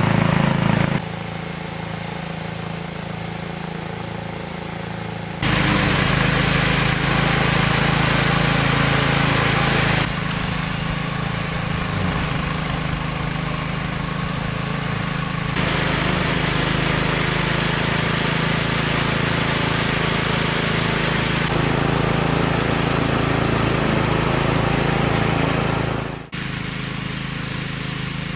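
Small engine running steadily, heard in several cut segments whose level and tone change abruptly from one to the next.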